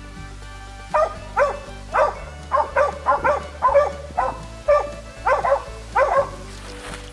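A hunting dog barking repeatedly: about a dozen short barks in quick succession, starting about a second in and stopping near the end, over background music.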